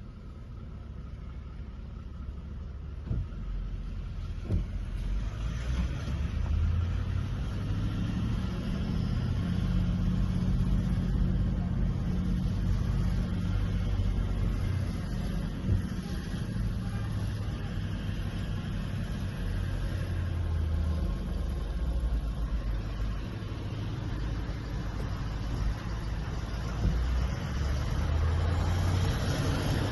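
Motor vehicle engine running with a low drone whose pitch shifts up and down, building up over the first few seconds, with a few short knocks along the way.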